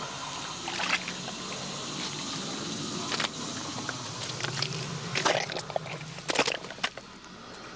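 Duct tape ripped off the roll in several short, sharp tears, spaced a second or two apart, over a steady low hum.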